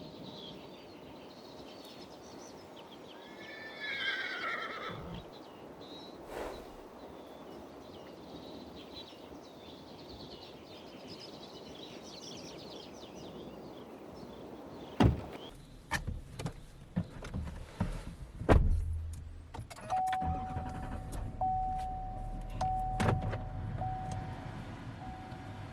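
Pickup truck sounds: a series of sharp clicks and knocks like doors and latches, then a low engine rumble sets in, with a steady chime tone that repeats on and off over it. Faint chirps, like birds, are heard in the first half.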